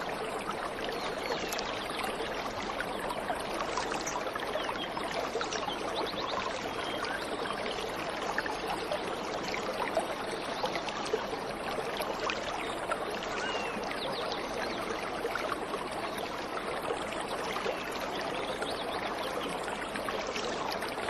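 Waterfall: water falling and splashing steadily, with many small splashes and droplets in a dense, even noise.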